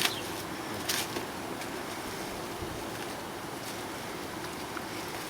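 Steady hum of a mass of honeybees around a newly installed hive, under a wash of outdoor noise, with a sharp rustle at the start and another about a second in.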